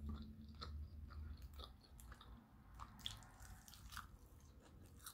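Quiet, close-up chewing of crunchy fried chicken, with irregular crisp crunches and a bite into the breaded chicken near the end.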